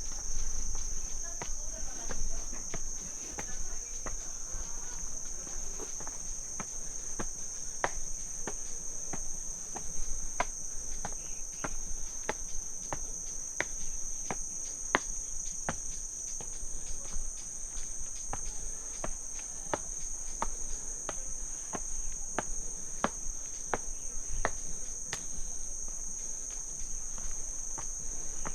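Crickets singing in a steady high-pitched drone, with footsteps on a path about two a second.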